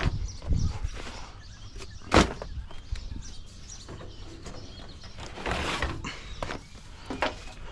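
Handling noise from work on a truck: light clicks and knocks, one sharp clack about two seconds in, and a short scraping rustle a little before six seconds.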